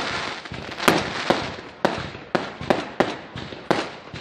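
Fireworks going off: a rapid, irregular run of sharp bangs, about ten in four seconds, each trailing away before the next.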